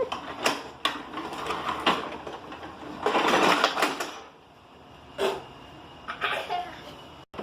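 Small plastic toy pieces being handled and fitted together: a series of sharp clicks and knocks, with a rustling scrape about three seconds in.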